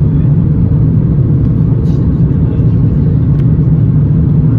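Steady low rumble of cabin noise inside an Airbus A350 airliner: engine and airflow noise that holds even, with no change in pitch.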